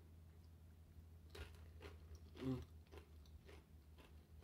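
Faint chewing of crunchy tortilla-chip nachos, about two crunches a second, the loudest about halfway through.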